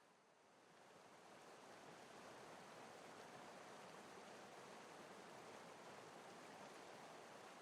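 Faint, steady rush of water, dipping briefly in level just after the start and then holding even.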